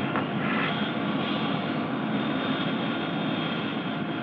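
Fixed-wing aircraft engine noise, a steady rushing that eases slowly, as a Navy trainer lands on a carrier deck and catches the arresting wire.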